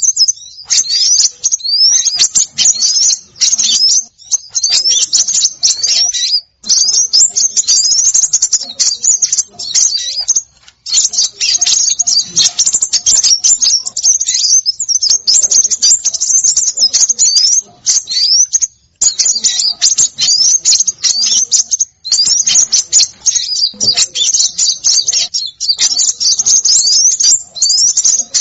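A dense, nonstop chorus of small songbirds chirping rapidly, with many quick rising whistles and a few short pauses: a bird-trapping lure recording that mixes small-bird calls such as sunbirds and minivets.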